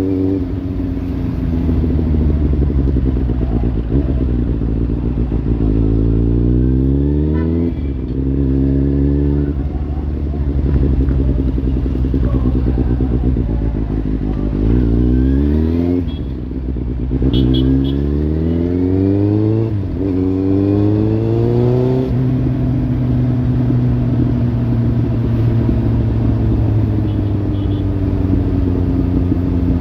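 Kawasaki Z800's inline-four engine through a Lextek slip-on exhaust, pulling up through the gears: its pitch climbs, drops back at each shift several times, then holds fairly steady near the end.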